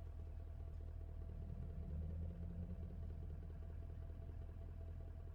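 Mercedes C63 AMG's M156 6.2-litre V8, fitted with long tube headers, x-pipe and no cats, running at low revs with a steady low drone; the note swells slightly higher for about a second and a half, starting about one and a half seconds in.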